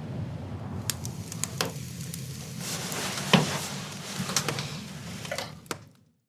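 Scattered sharp knocks and clicks, about seven of them, the loudest about three and a half seconds in, over a steady low rumble; everything cuts off abruptly near the end.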